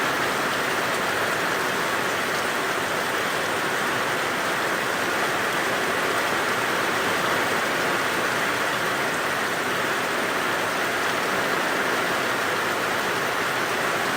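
Heavy rain pouring down steadily, an even hiss of a downpour with no let-up.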